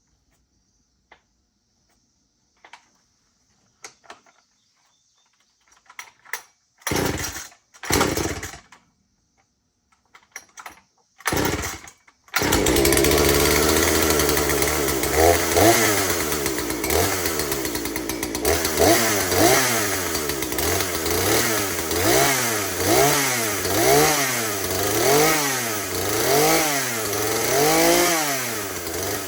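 Husqvarna 240 two-stroke chainsaw cold-started on choke: a few faint clicks, then several short bursts as the starter is pulled and the engine fires briefly. About twelve seconds in it catches and keeps running, its engine speed rising and falling about once a second.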